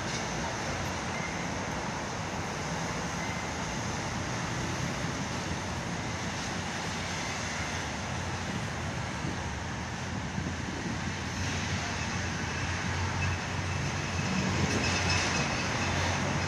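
PNR diesel locomotive hauling a passenger train as it approaches the station, over steady city traffic noise. Its engine and wheel noise grow louder over the last few seconds.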